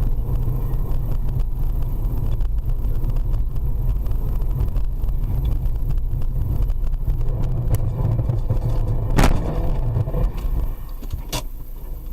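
A car driving, with a steady low engine and road rumble. A single sharp bang comes about nine seconds in, with lighter knocks shortly before and after it.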